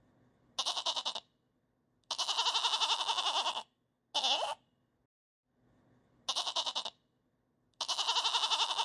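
Goat bleating five times, with short pauses between calls; the second and last bleats are long and quavering, the others short.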